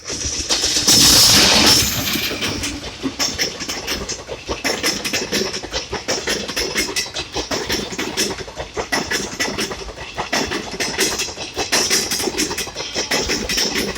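Freight train rolling past, its wheels clacking over the rail joints in a dense, irregular run of clicks. There is a loud hissing rush about a second in.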